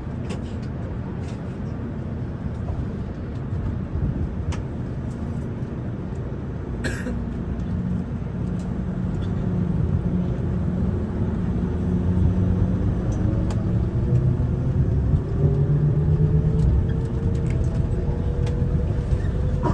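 Airport people-mover train running on its guideway: a steady rumble that grows louder, with a drive whine rising in pitch as the train picks up speed. A short click about seven seconds in.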